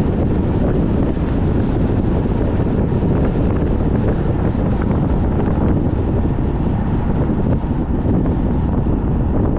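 Heavy, steady wind rumble on the microphone, mixed with the running noise of a car being driven in extremely strong wind.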